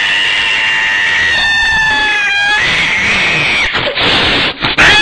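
Cat caterwauling: long drawn-out yowls, held and wavering in pitch, with a short break near the end.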